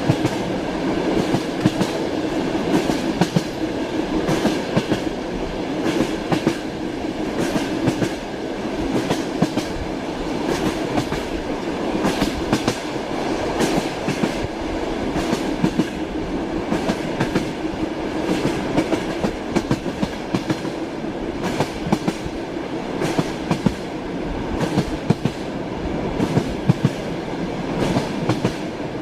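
Steady rumble of a moving passenger train heard from inside a compartment, with the wheels clacking over rail joints again and again.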